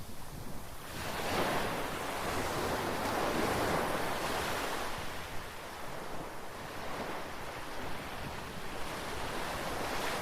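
Sea waves breaking and washing up the shore: a swell builds about a second in and eases off over several seconds, and another rises near the end. There is some wind on the microphone.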